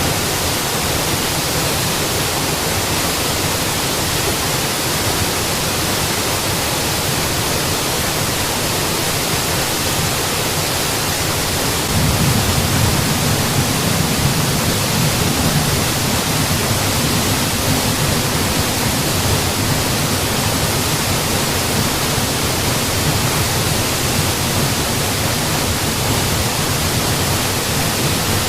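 Mountain waterfall, a steady rush of falling water. About twelve seconds in the low rumble grows slightly louder and holds.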